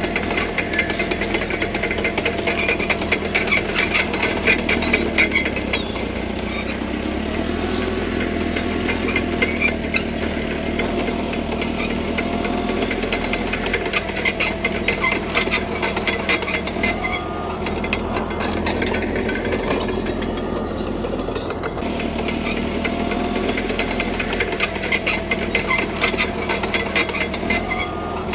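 CAT D3K crawler bulldozer working gravel: its diesel engine running steadily under load, with a fast, continuous metallic clatter from the tracks and blade.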